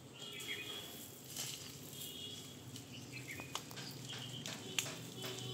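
Small birds chirping in repeated short calls, over the rustle and scattered clicks of potting mix and a disposable plastic cup being handled, with one sharper click near the end. A faint steady low hum runs underneath.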